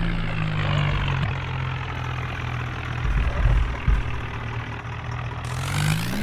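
Tractor engine running steadily at low revs, a low even note.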